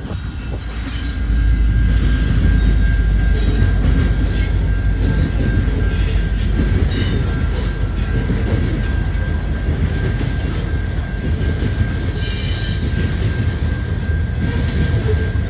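Canadian National freight train rolling past: a steady heavy rumble of cars on the rails that swells about a second in, with brief high wheel squeals now and then.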